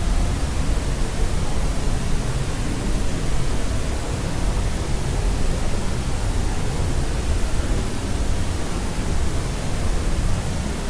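Steady sleep-aid white noise: an even, unchanging hiss, heaviest in the low end.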